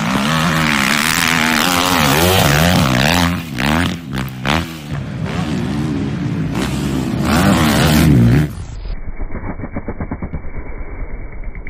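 Dirt bike engine revving up and falling back again and again as it is ridden hard. About eight and a half seconds in, it turns to a muffled, lower, even pulsing.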